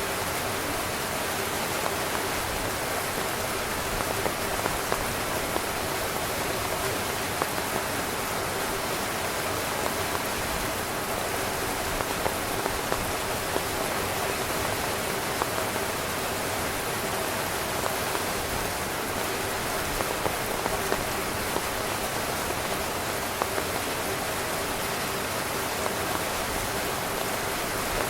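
Steady rain falling on a tent, with sharper single drops striking now and then.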